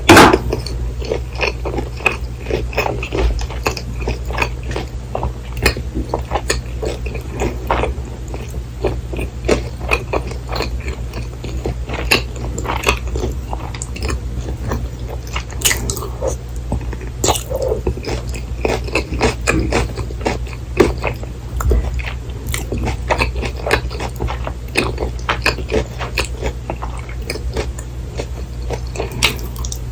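Close-miked chewing and biting of a breaded, deep-fried cheese pork cutlet, with irregular crisp crunches and mouth clicks, over a steady low hum. There is a loud knock right at the start.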